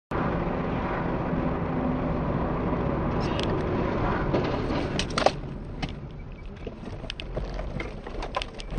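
Car driving noise, a steady low rumble of engine and road, with several sharp clicks or knocks in the second half, the loudest about five seconds in.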